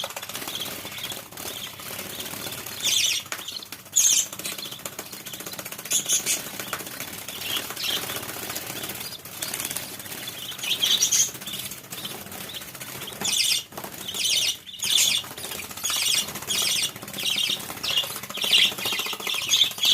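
Pet bird chicks and their mother making repeated short bursts of rapid, high-pitched fluttering and chattering, coming every second or two and thickest near the end.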